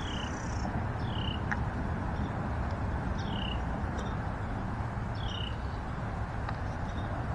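A bird calling: short, high, falling chirps repeated about every one to two seconds, over a steady low background rush.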